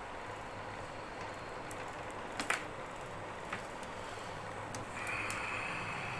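Steady low hum and background noise with a few small clicks, the sharpest about two and a half seconds in; a soft hiss comes in about five seconds in.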